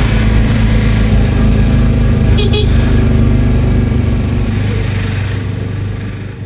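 Auto-rickshaw (tuk-tuk) engine running steadily on the move, with road and wind noise and a brief high tone about two and a half seconds in.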